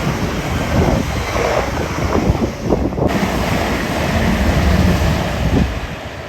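Train passing at speed: a loud rushing noise with wind buffeting the microphone, falling away near the end.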